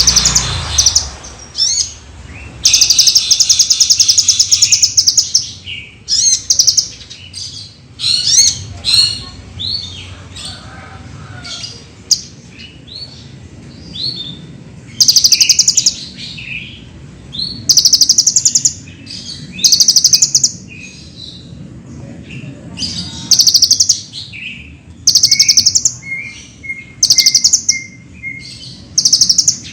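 Kolibri ninja sunbird singing: loud, high, rapid trilled phrases a second or two long, repeated every few seconds, between shorter chirps and quick sweeping notes. Near the end comes a short run of lower, evenly spaced notes.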